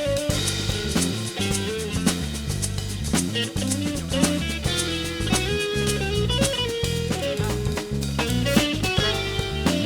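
Live band playing an instrumental passage without vocals: guitar over a drum kit with a moving bass line.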